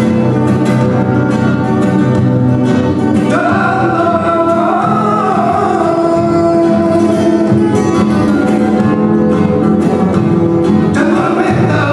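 Flamenco-style song: a voice singing long, held notes over guitar, with many sharp percussive strokes.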